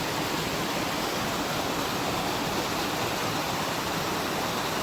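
Rushing water of a mountain stream, a steady even roar.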